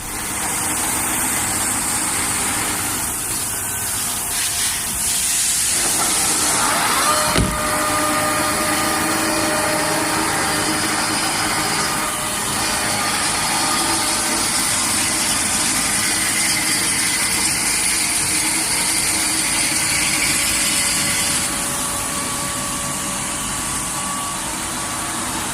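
Nexturn SA-38E CNC lathe running: a steady mechanical hum under an even hiss, with one sharp click about seven seconds in and the hiss easing slightly near the end.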